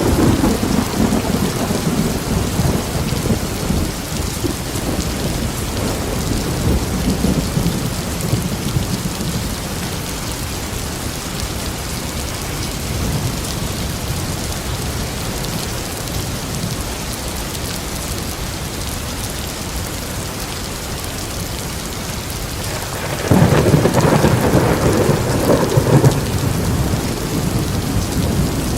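Steady heavy rain with rolling thunder: a rumble fading away over the first few seconds, and a louder roll of thunder starting near the end and lasting about three seconds.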